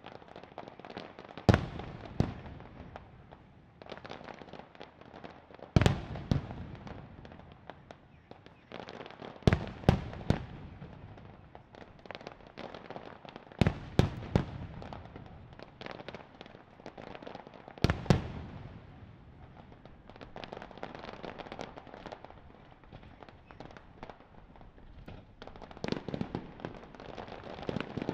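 Aerial fireworks display: shells bursting with loud bangs every few seconds, with a haze of smaller pops and crackle between them. The pops come thicker and faster near the end.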